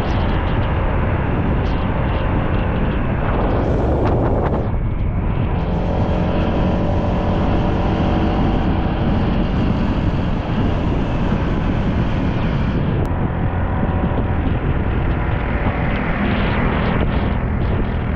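Motor scooter running at speed, its engine drone steady under heavy wind rush on the microphone, with a brief louder surge of noise about four seconds in.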